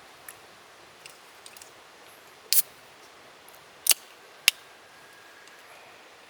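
Three sharp clicks near the middle, the last two about half a second apart, with a few fainter ticks before them, over a faint steady hiss.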